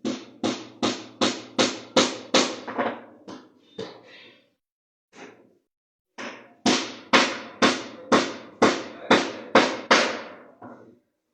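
Hammering on a wooden box: two runs of steady blows, about two or three a second, each blow ringing briefly. The first run fades out after a few seconds, and the second starts after a short pause.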